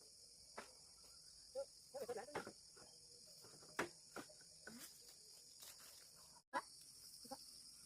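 A steady, high insect chorus, crickets or similar, with scattered faint clicks and knocks over it.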